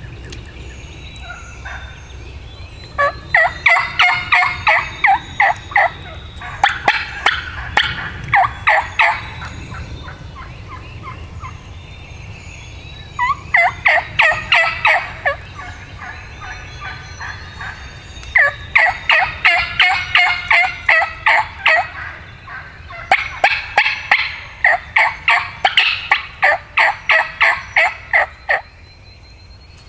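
Wild turkey yelping in about five runs of sharp, rapid notes, some runs several seconds long. It is an agitated hen calling back and forth in a confrontational exchange.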